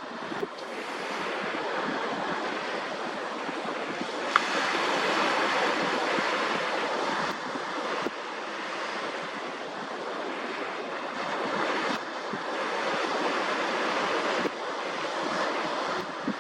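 Sea waves washing onto the shore in a steady, swelling hiss, with wind on the microphone. A single sharp click about four seconds in.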